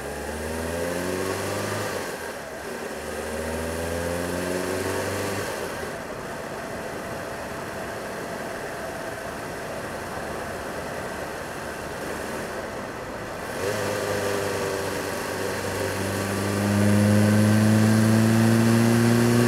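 Opel Corsa A engine pulling away through the gears: the revs rise, drop at an upshift about two seconds in, and rise again. It then runs at a steady cruise, and from about fourteen seconds in it revs up again, louder, climbing slowly to the end.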